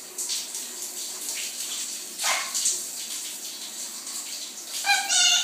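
Shower water spraying steadily, with a stronger splash a couple of seconds in. Near the end a short high-pitched call is heard.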